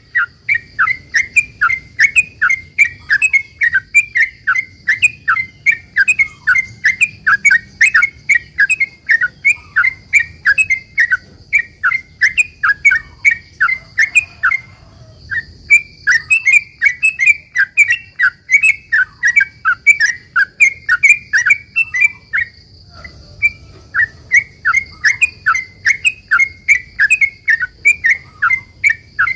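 Yellow-vented bulbul (trucukan) singing a long, fast run of sharp chattering notes, several a second, in the rolling 'ropel' style. The run breaks off briefly twice. A faint steady high-pitched whine sits underneath.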